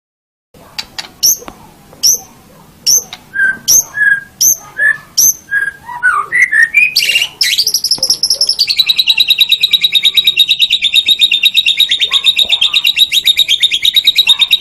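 White-rumped shama (murai batu) singing: a string of short, sharp whistled notes, then from about halfway a long, rapid trill that drops a little in pitch soon after it starts.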